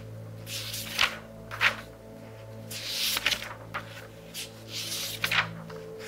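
Pages of a very thick book being turned quickly by hand, about five papery swishes and rustles spaced roughly a second apart. Soft background music plays steadily underneath.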